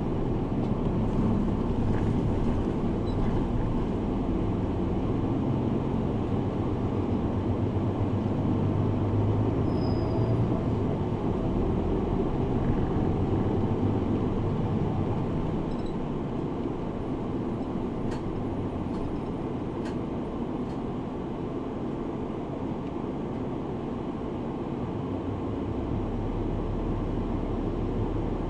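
The inside of a route bus on the move: steady engine and road noise, a little quieter in the middle stretch, with a few faint ticks about two-thirds of the way through.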